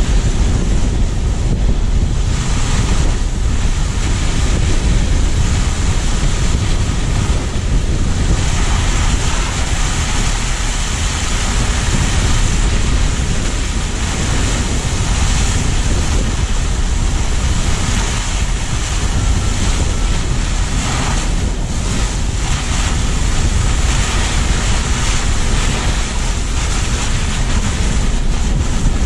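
Steady rush of wind on a car-mounted action camera's microphone, mixed with the tyre and road noise of a car driving on snowy streets.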